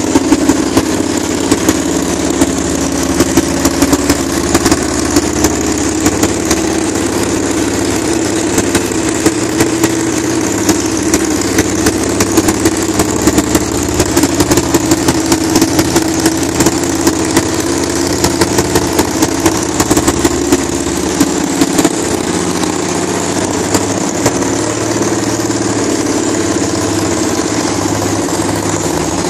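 Honda CRF250L's single-cylinder four-stroke engine idling with no muffler: a loud, steady, open exhaust note with frequent sharp spikes.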